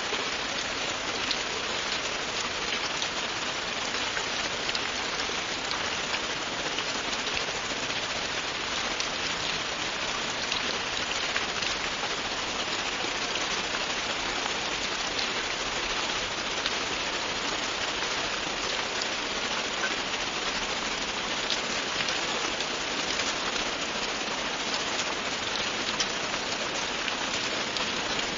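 Steady, continuous rain falling on a surface, an even hiss with many small drop ticks through it.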